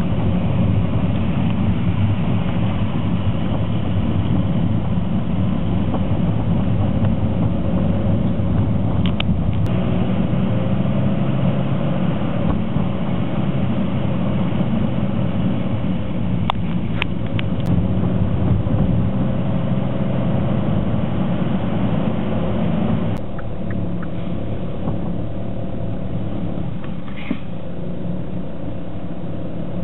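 Street traffic: car engines running, with a few faint clicks; the sound steps down a little about two-thirds of the way through.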